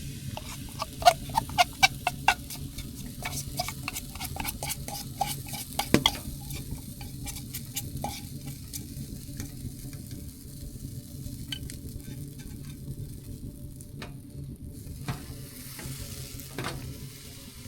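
A utensil stirring and tapping, with rapid clicks through the first six seconds, then crêpe batter sizzling in a hot pan with a few scattered taps.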